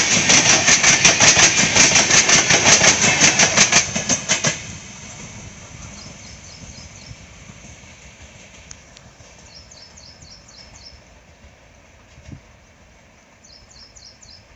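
Red-and-grey LHB passenger coaches of an express train running past close by: a loud, rapid clatter of wheels over the rail joints that fades away about four and a half seconds in as the last coach clears. After that only a faint hiss remains, with a few clusters of short, high chirps.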